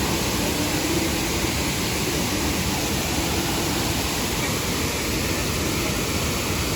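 Shifen Waterfall pouring down: a steady, even rush of falling water.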